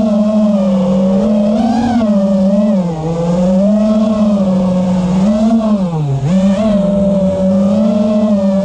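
Motors and propellers of a 5-inch FPV quadcopter whirring in flight. The steady whine rises and falls in pitch with the throttle, dipping twice, at about three seconds and about six seconds in.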